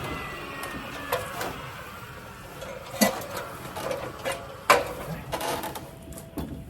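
A handful of sharp knocks and taps from construction work on wooden siding, spaced irregularly, the loudest about three seconds in and again a little before five seconds in.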